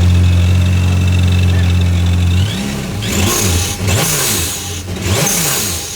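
Engine of a 2019 Yamaha FX SVHO jet ski, a supercharged four-cylinder, held at steady high revs. About two and a half seconds in, the throttle starts cycling and the engine note rises and falls several times, with bursts of hiss.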